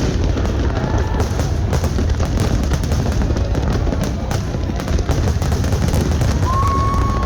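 Fireworks bursting in quick succession: many sharp bangs and crackles over a continuous low rumble. A held whistle tone sounds near the end.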